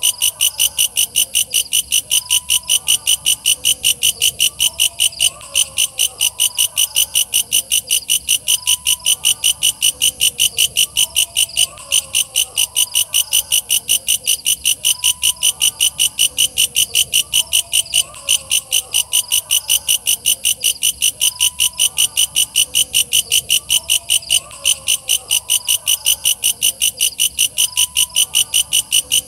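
Walang kecek bush cricket (katydid) calling: a loud, shrill, evenly spaced train of pulses, about three a second, without a break.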